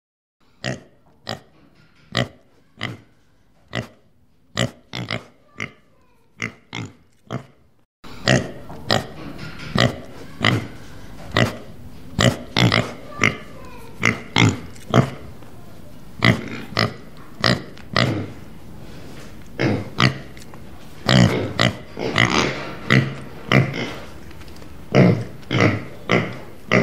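Domestic pigs grunting in short, separate grunts, about one or two a second. About eight seconds in, a noisier background comes up and the grunts from several pigs come louder and closer together.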